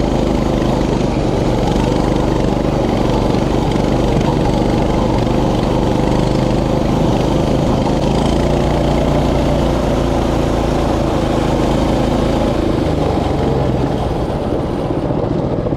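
Mini bike's small engine running steadily while the bike is ridden, its note easing off near the end as it slows.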